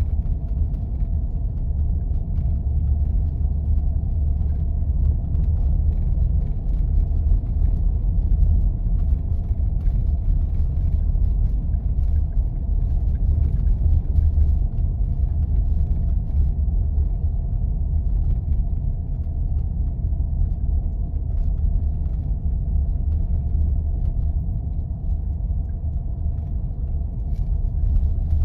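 Steady low rumble of a vehicle driving on snowy roads: engine and tyre noise with no change in pace.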